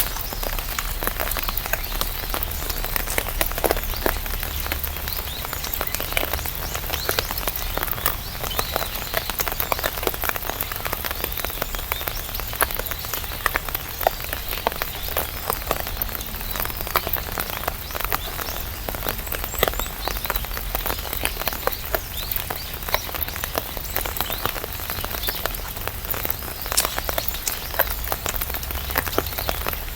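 Steady rain falling on an umbrella, with many separate drops ticking on the canopy over a constant hiss.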